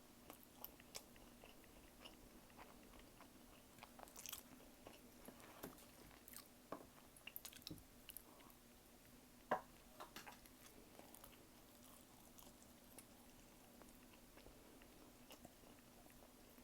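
A person chewing a meal of tteokbokki and gimbap, close-miked: soft wet smacks and small clicks of chewing, thinning out after about eleven seconds, over a faint steady hum.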